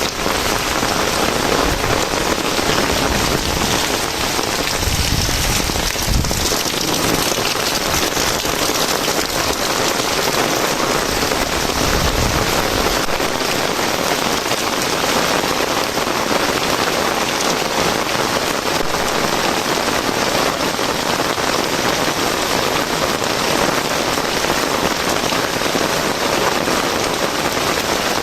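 Steady rain falling hard and continuously, with a brief low rumble about five to six seconds in.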